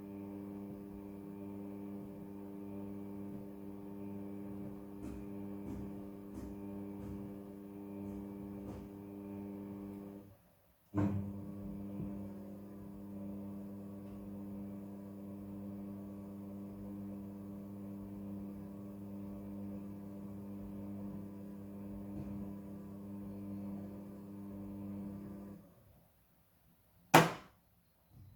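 Front-loading washing machine running with a steady low electrical hum. The hum cuts out briefly about ten seconds in, comes back, and stops near the end, followed by a single sharp click.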